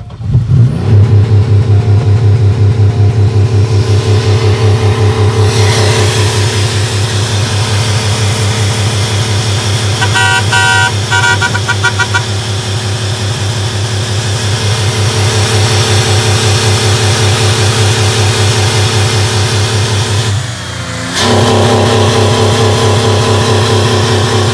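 Buick LeSabre 3.8-litre V6 starting just after the beginning and then running loudly with a steady, rhythmic pulse, its crankcase filled with yogurt drink in place of engine oil. Near the middle a high stuttering tone sounds for about two seconds, and near the end the engine sound dips briefly before carrying on.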